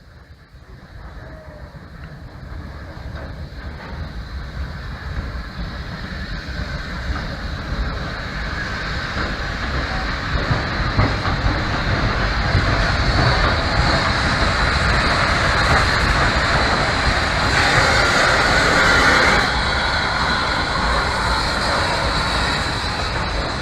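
Wainwright C class goods steam locomotive No. 592 reversing along the track, its running gear and wheels on the rails growing steadily louder over about twelve seconds as it draws near, then holding loud.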